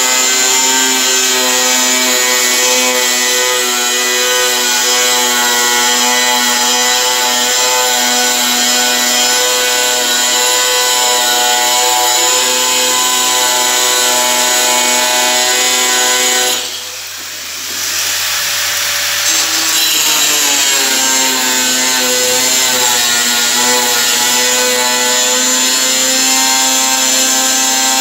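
A power tool's motor running continuously with a steady whine. About two-thirds of the way through it cuts out briefly, then comes back and its pitch sags and recovers.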